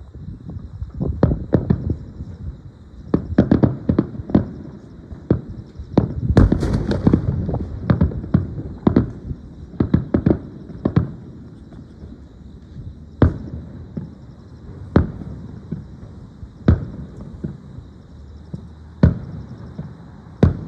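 Aerial fireworks bursting: a rapid salvo of booms and one crackling burst in the first half, then single shell bursts spaced about two seconds apart.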